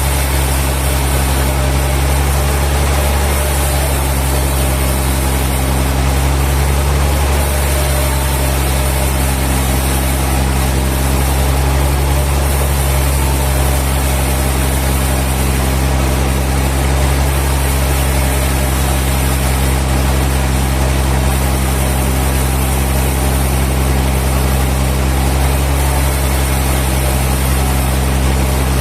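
Sawmill machinery running steadily with an unchanging low engine-like hum, no cutting strokes or impacts.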